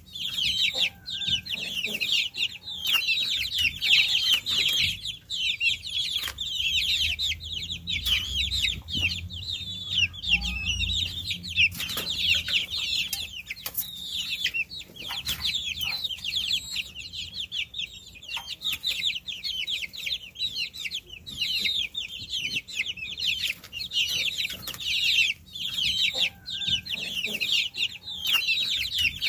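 A brood of baby chicks peeping constantly, many short, high chirps overlapping with no pause, with an occasional sharp click among them.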